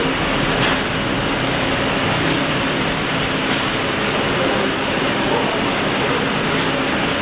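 Steady hiss and crackle of electric arc welding.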